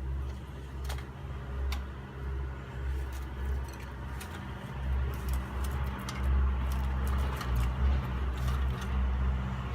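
Small dry twigs being handled and snapped as they are arranged for a fire, a scatter of sharp clicks and crackles over a steady low rumble.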